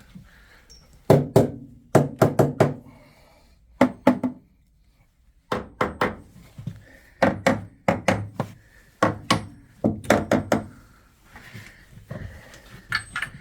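Hammer tapping on a power boat's engine stringer, in quick runs of several knocks with short pauses between. The stringer sounds hollow, the sign of a soft, delaminated spot.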